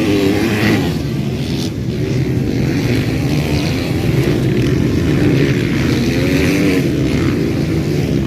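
Motocross bike engines running loud on the race track, their pitch rising and falling as the riders rev up and back off.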